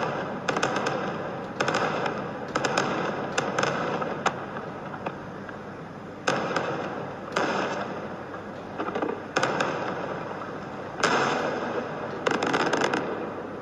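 Starmine fireworks barrage: a rapid run of aerial shell bursts, each sharp bang fading away in a long rolling echo, with clusters of quick crackling pops. The biggest bang comes about eleven seconds in.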